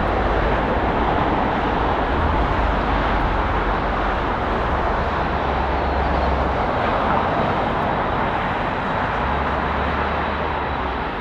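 Jet engines of a Boeing 767-300 freighter on its arrival, heard as a steady, loud roar that eases a little near the end. There is low rumbling underneath, like wind on the microphone.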